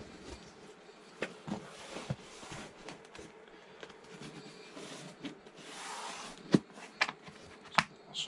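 Packaging being handled by hand: a series of sharp clicks and knocks, with a brief rustling scrape about six seconds in, over a faint steady hum.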